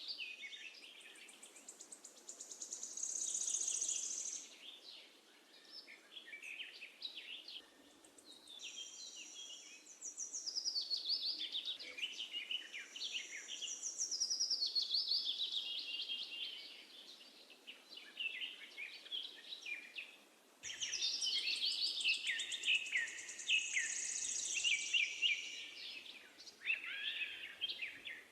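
Songbirds singing: busy runs of high chirps and falling trills in phrases a few seconds long, with short gaps between them, over a faint steady background hiss.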